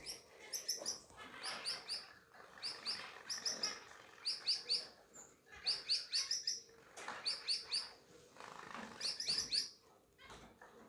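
Small cage birds chirping: short high chirps given in quick clusters of three or four, repeated about once a second.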